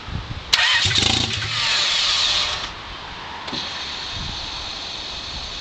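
Turbocharged Honda D16 engine, with no exhaust fitted, being started for the first time: a sudden loud burst about half a second in that lasts about two seconds, then a quieter steady sound with a faint high whine.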